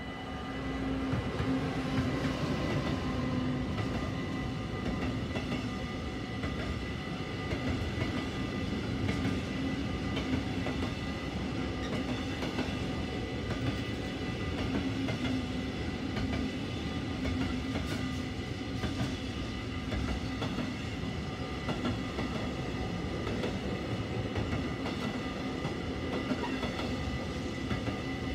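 A Siemens Vectron electric locomotive passes close by, and a long container freight train follows it. The wagons roll by with steady wheel rumble, a continuous hum, and repeated clickety-clack clicks from the wheels over the rail joints. The sound gets louder about a second in, as the locomotive draws level.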